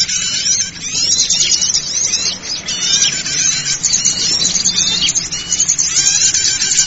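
Small forest birds twittering and chirping, many quick, high calls overlapping without a break. This is a bird-lure recording used to draw small birds in.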